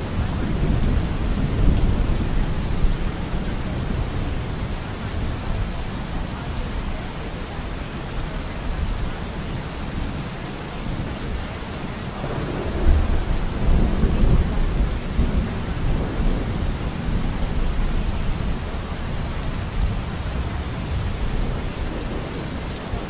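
Steady heavy rain with rolling thunder. Deep rumbles swell near the start and again about halfway through.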